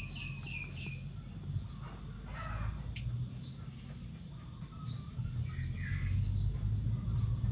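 Birds chirping: a quick run of repeated chirps in the first second, then scattered short calls, over a low steady rumble that grows louder from about five seconds in.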